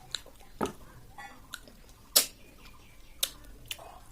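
Close-up eating of snail curry: wet chewing with a few sharp clicks, the loudest about two seconds in.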